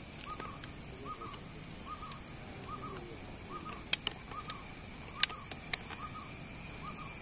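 A bird repeating a short call over and over, a little more than once a second, over a steady high-pitched whine. A few sharp clicks come about four and five seconds in.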